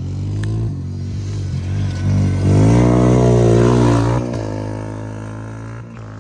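Off-road vehicle engine revving: its pitch climbs and it is loudest about halfway through, then it eases back to a steadier, lower run.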